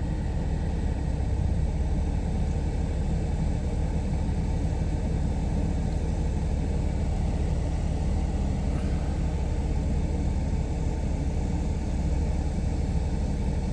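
Steady low rumble of a car's engine and tyres heard from inside the cabin while driving, even throughout.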